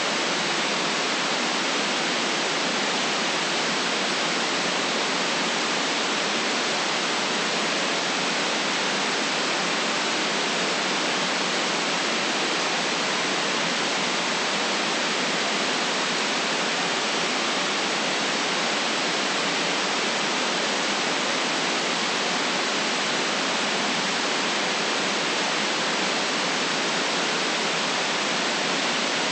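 Steady synthetic white noise, an even hiss filtered to cut the deepest bass and the highest treble, unchanging in level.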